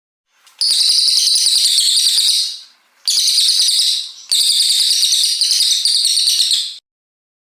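Cililin coklat songbird singing in long, rapid, high-pitched chattering bursts, three in a row. The second is shorter than the other two. This is the long, unbroken delivery that bird-keepers call 'tembakan panjang'.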